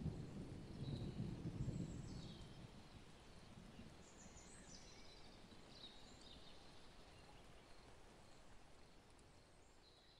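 Birds chirping faintly, a scatter of short high calls, some falling in pitch, over faint steady background noise. A low rumble fills the first two seconds, then dies away.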